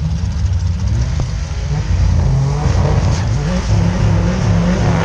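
Drag-race car engines revving hard on the start line. From about two seconds in the pitch climbs and drops in repeated surges.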